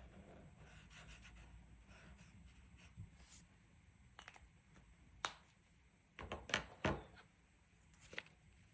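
Colouring tools handled on a desk: faint rubbing of colouring on paper, then a few sharp clicks and knocks, with the loudest cluster about six to seven seconds in.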